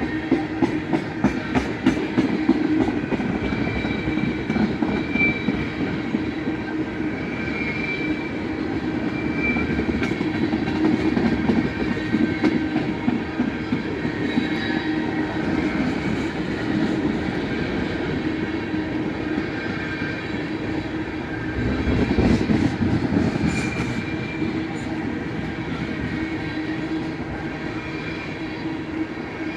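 Freight train of loaded oil tank cars rolling past up close: a steady rumble of wheels on rail, with rapid clacking over the rail joints at first and thin wheel squeals that come and go. The rumble swells louder for a couple of seconds about three-quarters of the way through.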